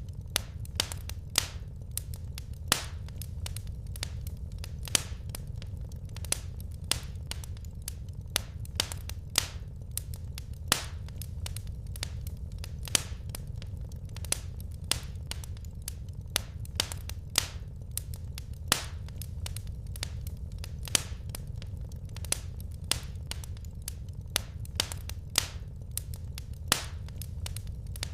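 Wood fire crackling: irregular sharp pops and snaps from burning logs, several a second, over a steady low rumble of the flames.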